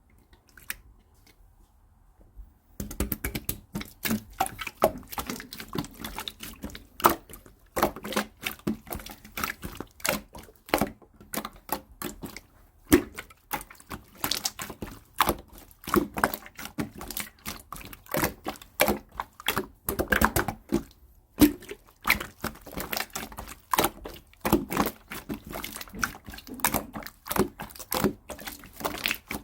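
Clear slime being squeezed and poked by hand, giving rapid, irregular sticky clicks and air-bubble pops several times a second, starting about three seconds in.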